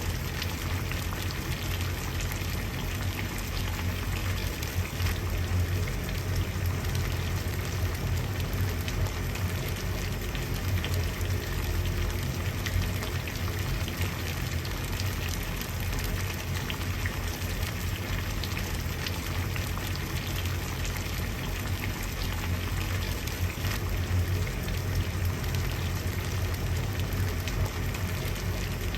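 Water at a steady boil, bubbling and popping in a dense, even patter over a low rumble.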